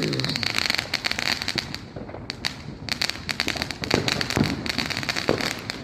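Fireworks going off: a dense, continuous crackle of rapid pops, with a few heavier bangs in the second half.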